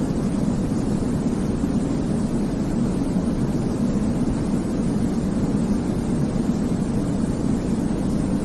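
Steady baby-sleep white noise, an even, deep rumble with most of its weight in the low range and no change or pattern.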